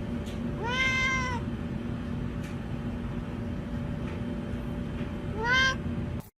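Domestic cat meowing twice: a long meow that rises and falls about a second in, and a shorter one near the end, over a steady low hum.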